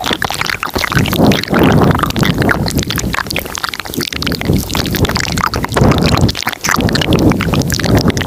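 Layered close-microphone ASMR mouth sounds: many quick wet clicks and smacks over low, swelling breathy rumbles.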